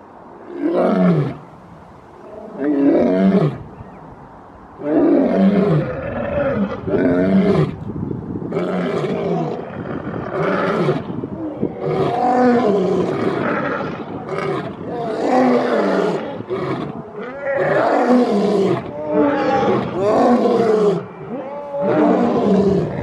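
Lion roars: two single roars in the first few seconds, then from about five seconds in a long unbroken run of roars, each falling in pitch.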